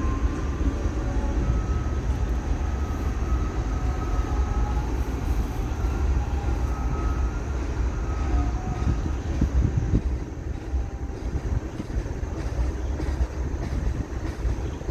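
Freight train rolling past with a steady heavy rumble. A faint high squeal wavers in and out during the first half.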